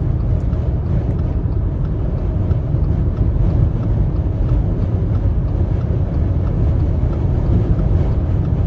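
Steady low rumble inside a car cabin while driving through a dust storm: wind buffeting the car mixed with road and engine noise.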